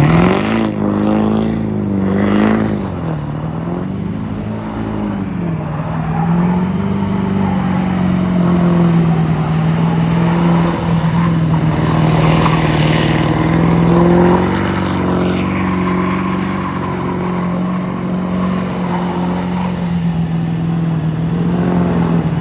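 GM pickup truck engine revving hard: the pitch climbs sharply at the start and rises and falls a few times, then holds at steady high revs, as when the truck is driven in circles. A brief hiss comes about halfway through.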